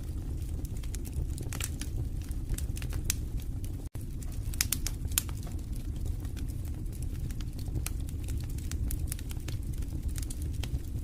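Wood fire burning in a fireplace: a steady low rumble of flames with scattered sharp crackles and pops, irregularly spaced, and an instant's cut-out about four seconds in.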